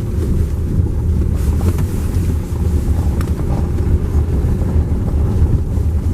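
Steady low rumble of a vehicle running, with wind buffeting the microphone.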